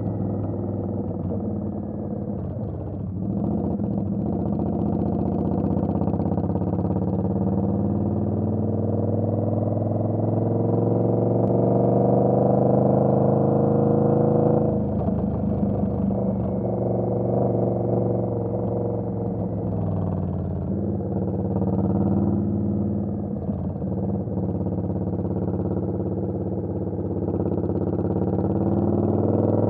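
Indian Scout Bobber's V-twin engine under way. The revs climb steadily for about ten seconds, fall off sharply about halfway through, then rise and dip a few times before climbing again near the end.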